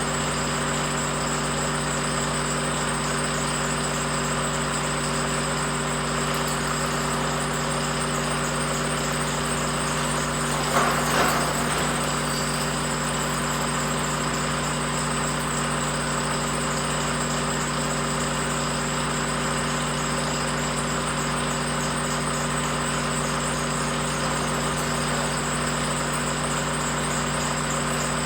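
A machine running steadily with a constant hum, with a brief louder sound about eleven seconds in.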